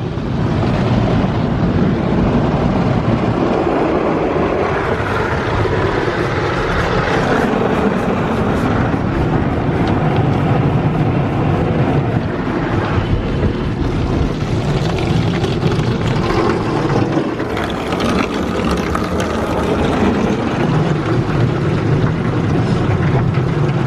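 Coleman Hanna mini tunnel car wash working over the car, heard from inside the cabin: a loud, continuous rush of spraying water and scrubbing brushes against the body and glass, shifting in level as the car moves through.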